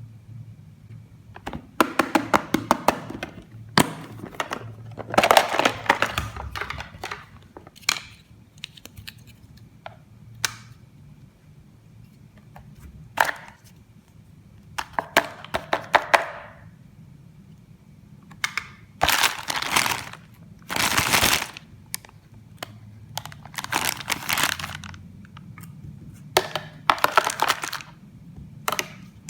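Plastic toy pieces and packaging being handled and unboxed: clusters of crackling, crinkling and sharp clicks, each a second or two long, with short pauses between them.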